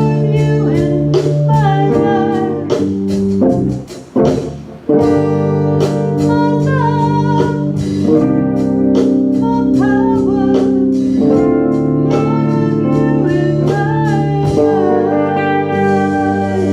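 Live band playing an instrumental passage: sustained organ-like chords under a wavering lead line, with regular drum hits. The music breaks off briefly about four seconds in, then comes back in.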